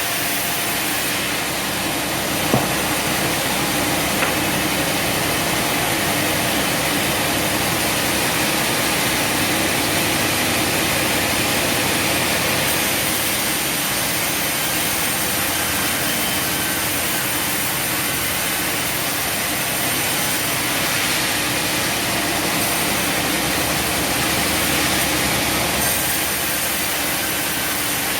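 Sawmill machinery running steadily, a loud even mechanical din, with a sharp click about two and a half seconds in and a smaller one at about four seconds.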